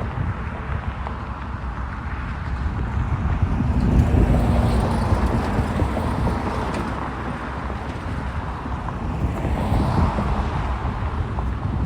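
Road traffic going by, with a steady rumble and hiss that swells as one vehicle passes about four seconds in and another about ten seconds in.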